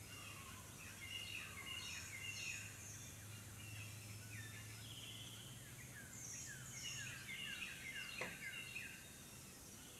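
Songbirds chirping, many short downward-sweeping calls overlapping, over a low steady hum that drops away near the end.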